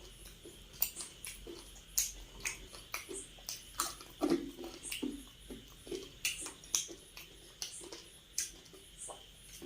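Close-miked wet chewing and lip smacking from a person eating, with irregular sharp mouth clicks several times a second.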